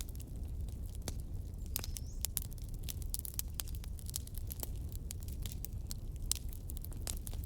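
Fireplace wood fire crackling: a steady low rumble of flames with irregular sharp pops and snaps several times a second.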